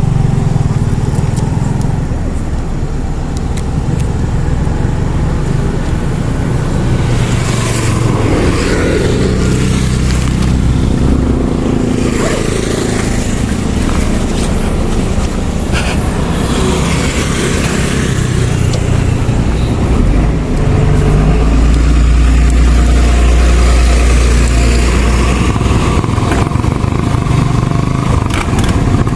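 Motorcycle engine running steadily as it rides along, under a rush of road noise, with the engine hum growing louder for several seconds about twenty seconds in.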